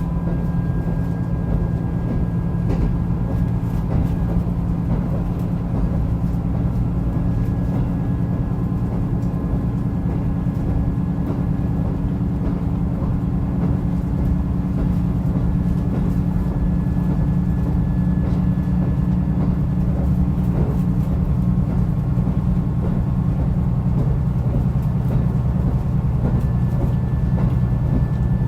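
Diesel railcar on the Rumoi Main Line running steadily: a low, even engine drone under the rolling noise of wheels on rail, with a faint whine above it and scattered light clicks.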